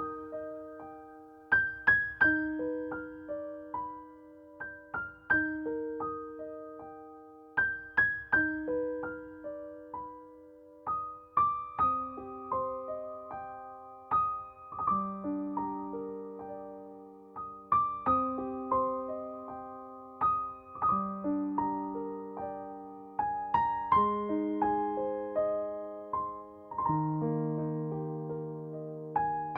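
Slow, gentle solo piano music: soft struck notes and chords that ring and fade, the bass line stepping downward over the passage.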